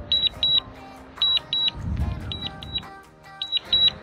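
Electronic warning beeps, sounding in high-pitched pairs about once every second and a quarter, with a short low rush of noise about two seconds in.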